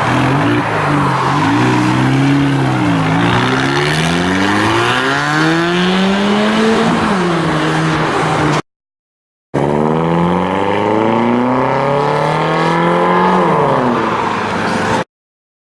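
Car engines accelerating hard away: the exhaust note climbs steadily in pitch and drops back sharply at a gear change, twice, with a brief cut to silence between the two pulls.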